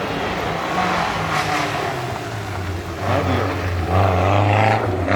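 Rally car engine running under throttle, the sound growing louder from about three seconds in and loudest near the end as the car comes closer.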